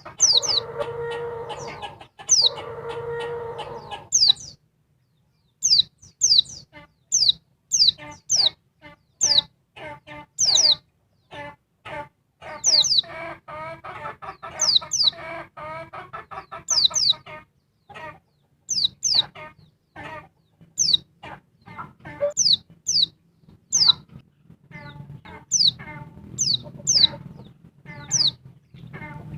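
Female white-eye (pleci) calling: a rapid series of short, thin, high chirps, each sliding sharply downward, mixed with bursts of fast chattering. Twice in the first four seconds a lower, drawn-out call sounds under the chirps.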